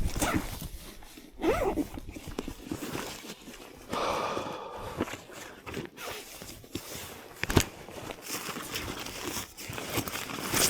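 Footsteps crunching through snow at an uneven pace, with a sharp click about seven and a half seconds in.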